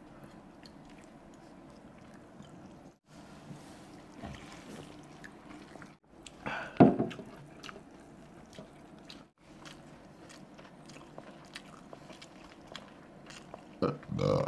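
Close-miked eating sounds of Indian street food: biting, crunching and chewing with small wet clicks, broken into short snippets every few seconds, and a louder crunch about seven seconds in.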